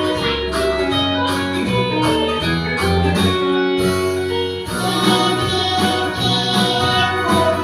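Instrumental backing music for a children's song, with plucked guitar over a moving bass line, playing between sung lines.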